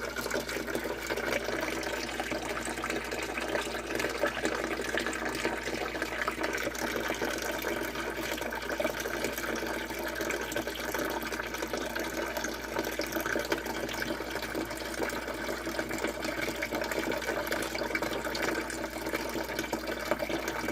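Water running steadily into a basement sump pit.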